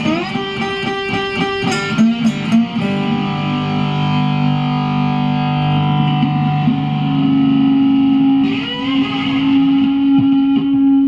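Guitar, probably electric, played solo: quick picked notes for the first few seconds, then notes left to ring on for a long time, with a slide up in pitch about eight and a half seconds in.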